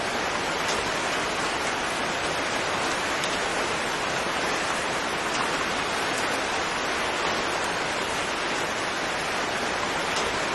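Steady rain falling, a dense even hiss with an occasional single drop ticking out above it.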